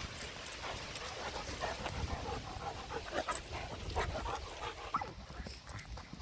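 Dog panting, with a scatter of brief faint sounds throughout.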